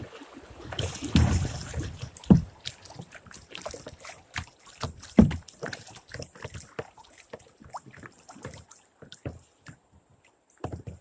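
Kayak paddling: water splashing and dripping off the paddle, with a few sharp knocks, the loudest about two and a half and five seconds in, thinning out to scattered drips toward the end.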